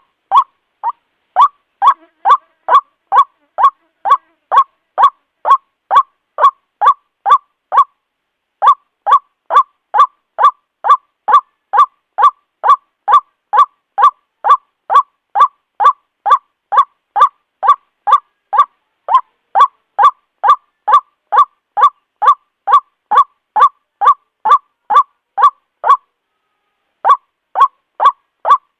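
White-breasted waterhen calling, a long run of short, loud, evenly spaced croaking notes, about two a second, with brief pauses about a third of the way in and near the end. It is a recording of the ruak-ruak's call used as a trapping lure to draw the birds in.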